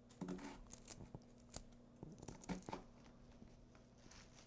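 Faint, irregular knife cuts through vegetables against a cutting board, a few soft clicks and crunches a second.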